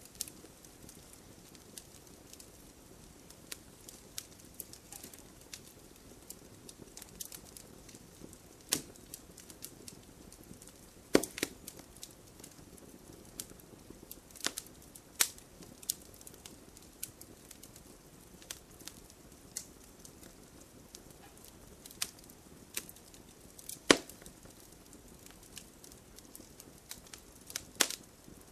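Wood fire crackling in a fireplace: a soft steady hiss with frequent small irregular crackles and a few louder sharp pops.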